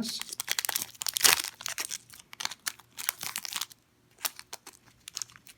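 Foil Pokémon booster pack wrappers crinkling as they are handled and sorted, a dense run of crackles that thins out after about three and a half seconds.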